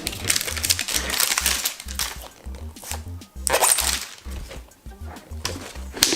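Background music with a steady pulsing bass line, over the crinkling and crackling of packaging being handled and torn open, in dense spells at the start, around the middle and near the end.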